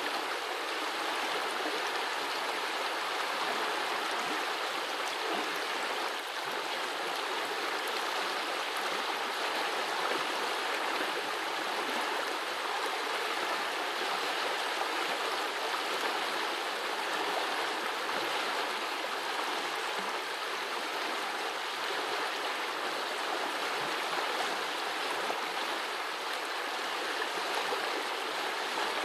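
Small forest brook running over stones, a steady babbling rush of water.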